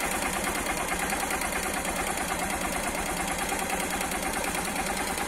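2008 Honda CG 150 Titan's carbureted single-cylinder engine idling steadily on its stock muffler and air filter, with a light rhythmic tapping ("batidinha") from its aftermarket Jet Motos City Grau performance camshaft.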